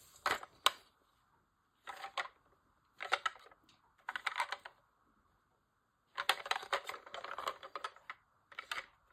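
Plastic toy police car being handled, clicking and rattling in about six short bursts with quiet gaps, the longest burst about six seconds in.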